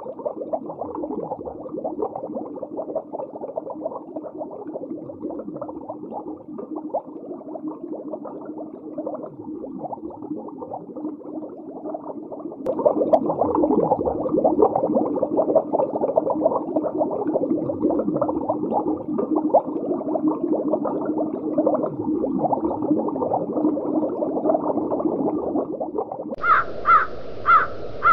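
Underwater sound: a dense, continuous bubbling crackle full of short pitch glides, growing louder about halfway through. Near the end it gives way to four short harsh bird calls in quick succession.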